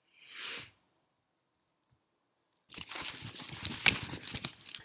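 A brief breathy hiss, then from just under three seconds in a dense clatter of small clicks and rustles as fingerboard trucks and parts are handled and rummaged through.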